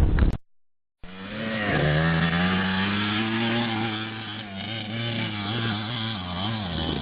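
Motorcycle engine running at low revs, its pitch wavering gently up and down. It follows a brief dropout to silence near the start.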